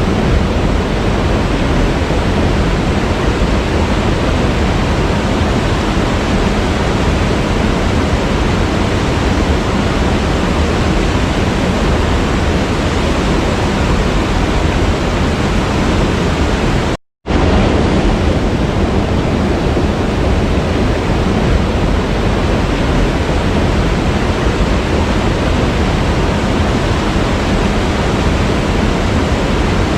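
Waterfall rushing in a steady, dense roar of falling water, cut off for a split second a little past halfway and then resuming unchanged.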